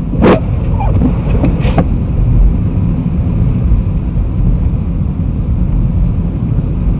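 Steady low rumble of a car driving slowly over a snow-covered road, heard from inside the cabin. A few short, sharp sounds come in the first two seconds.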